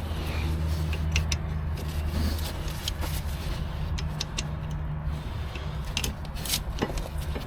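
A vehicle engine idling with a steady low hum, with scattered sharp clicks over it.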